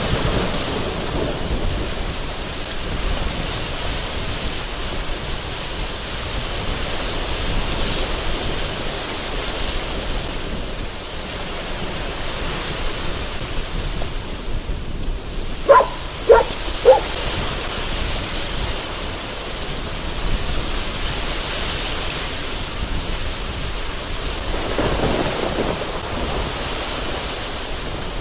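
Very heavy rain pouring steadily with gusting wind, and thunder rumbling in swells. About halfway through, three short pitched squeaks sound in quick succession.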